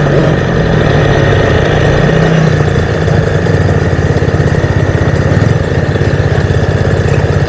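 Motocross bike engine idling close by, a steady, fast pulsing note whose pitch lifts briefly about two seconds in before settling back.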